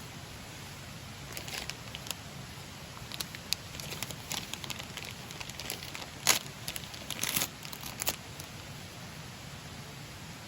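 Irregular crinkling and rustling handling noises with a few sharp clicks, the loudest two crinkles a little past the middle.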